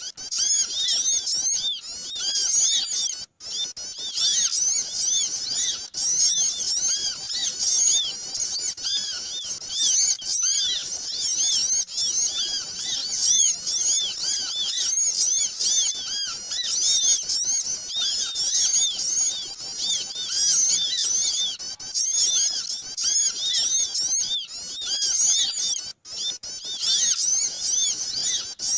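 Busy chatter of many small birds: dense, overlapping short high chirps with no pause, a noisy flock recording played as a lure call to draw small birds in.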